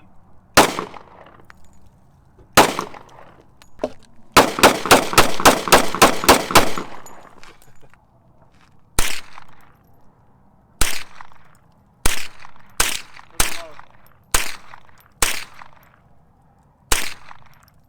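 Gunshots from target shooting: two single shots, then a rapid string of about ten shots, roughly four a second, four to seven seconds in, then single shots spaced one to two seconds apart.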